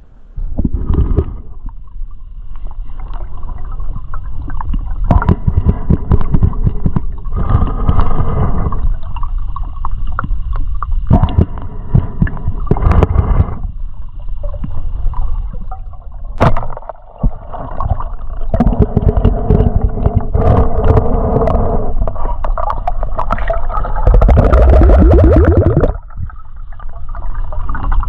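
Water gurgling and sloshing over an action camera's microphone, with a heavy, uneven low rumble that comes in surges and a few sharp knocks.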